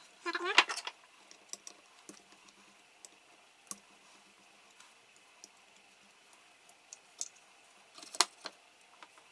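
Scattered light clicks and taps of tools and small parts being handled during work on the machine, with a sharper knock about eight seconds in.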